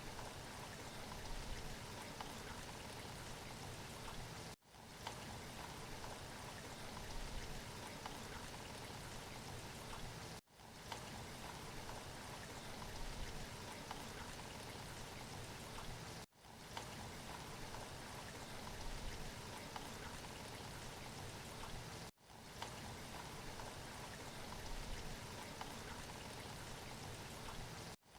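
Steady rain, a short recorded loop. It cuts out for a split second about every six seconds and quickly fades back in.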